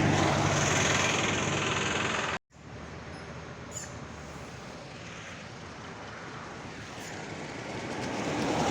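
Motorcycle engine idling with a steady low hum, which cuts off abruptly about two and a half seconds in. A quieter, even rushing noise follows and grows louder toward the end.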